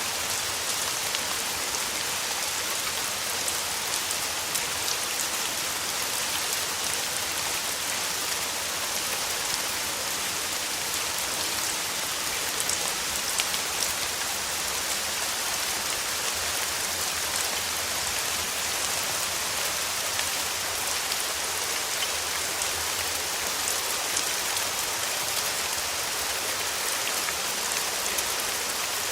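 Steady summer rain falling on a surface: a dense, even hiss flecked with the ticks of single drops.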